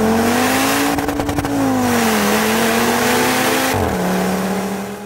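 First-generation Audi RS3's turbocharged 2.5-litre five-cylinder engine under hard acceleration, the revs climbing, easing off and holding, then dropping sharply near the end.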